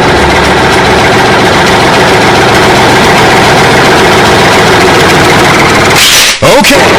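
A motor running steadily and loudly, with a short break and a quick pitch sweep about six seconds in.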